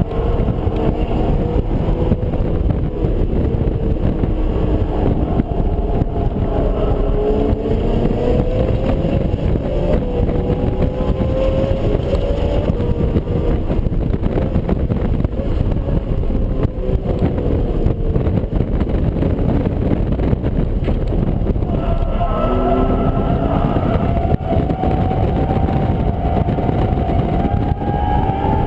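BMW Z4 M Coupe's 3.2-litre S54 inline-six under hard track driving, heard from inside the cabin. The engine note rises and falls with throttle and gear changes, then climbs steadily near the end, over constant road and wind noise.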